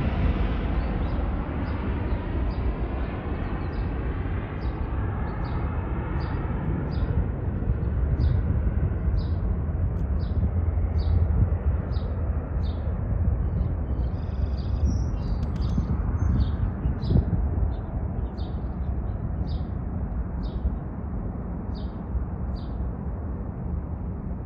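Jet airliner taking off and climbing away, its engine rumble steady and loud but slowly growing duller as it recedes. Over it a small bird chirps a little more than once a second.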